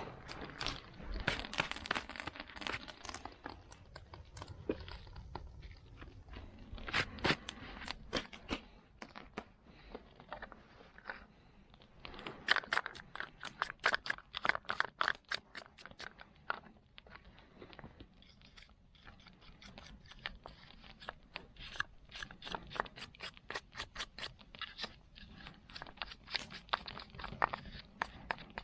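Quick runs of sharp metal clicks and short scrapes from a saw being worked on by hand, with quieter gaps between the runs.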